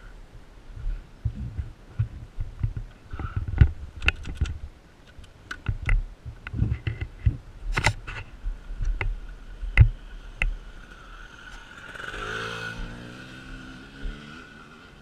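Irregular knocks, clatter and thumps of handling gear close by, then an off-road motorcycle engine swelling and fading as it passes, about twelve seconds in.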